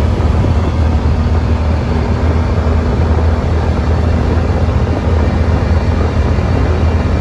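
Yamaha Wolverine side-by-side running steadily at low speed, a constant low engine drone with a rushing noise over it.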